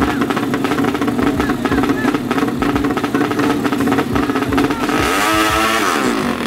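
Tuned drag-race scooter engines running at the start line with quick, uneven blips of the throttle. About five seconds in, one engine revs sharply up and drops back down.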